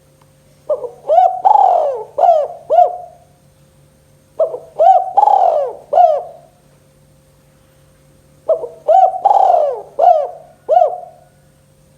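Spotted dove cooing three song phrases, about four seconds apart. Each phrase is a quick run of coos around one long drawn note and ends in two short 'kuk' notes, the 'kuk 2' song type.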